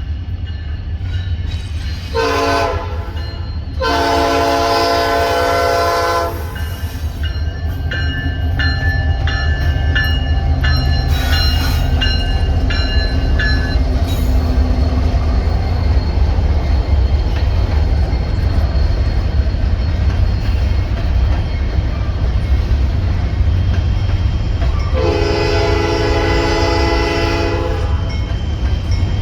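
Train locomotive sounding its multi-note air horn over the steady rumble of the passing train: a short blast, then a longer one, and another long blast near the end. In between, a bell rings about twice a second for several seconds.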